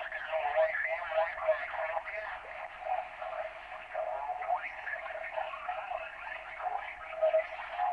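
Garbled, hard-to-make-out voices and static coming in over a CB radio's speaker, with the thin, narrow-band sound of radio reception.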